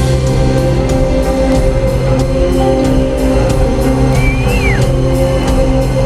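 Live rock band playing at full volume: sustained electric guitar chords over a drum kit keeping a steady beat, without vocals, echoing through a large hall.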